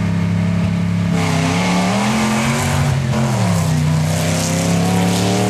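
Mud truck engines running loudly at the drag strip. The pitch climbs about two seconds in as a truck revs, then drops back to a steady rumble.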